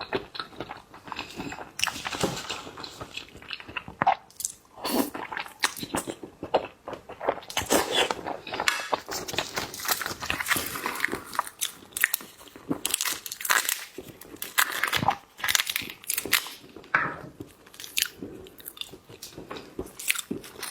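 Close-miked eating of seafood: repeated crunchy bites and wet chewing, crackling irregularly throughout.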